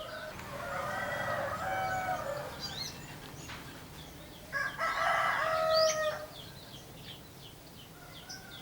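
A rooster crowing twice, the second crow louder, with small birds chirping thinly throughout.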